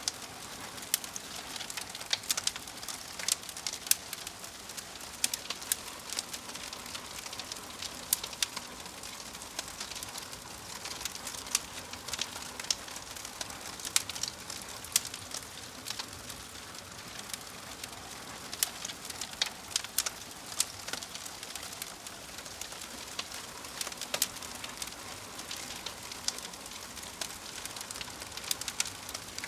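Logs burning in a fireplace: a steady hiss of flame with frequent irregular crackles and sharp pops.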